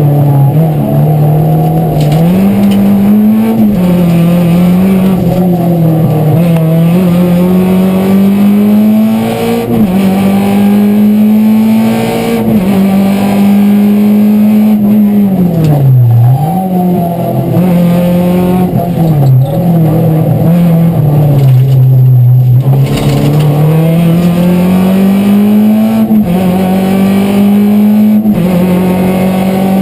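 A Renault Clio Ragnotti's four-cylinder engine heard from inside the cabin while lapping hard on a race circuit. The engine note climbs under acceleration and steps and drops through gear changes and braking, with a deep dip and recovery about sixteen seconds in.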